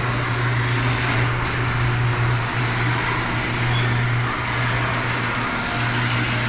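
Garage door opener motor running as it drives the door open, a steady loud hum with the door's rattling travel noise over it, dipping briefly a few times.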